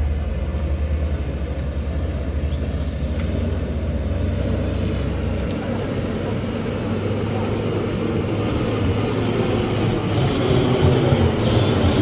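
A heavy vehicle's engine running on a steep climb: a low, steady drone that drops about five and a half seconds in. Toward the end, broader grinding road and mechanical noise builds and grows louder.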